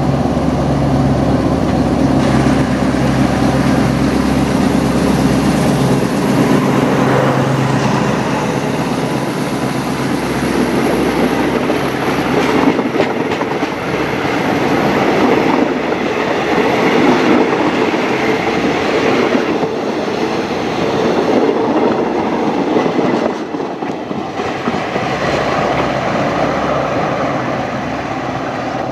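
Diesel-hauled passenger train passing close by. The locomotive's engine drone fades over the first few seconds, then the coaches' wheels run on the rails in a steady loud rolling noise that eases slightly as the train moves away near the end.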